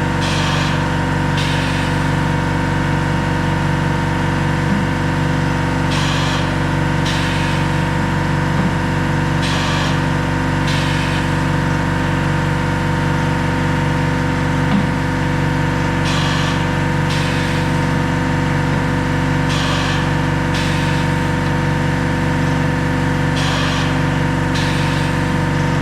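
A motor running steadily with a constant pitched hum. Pairs of short hissing bursts, about a second apart, come every three to four seconds.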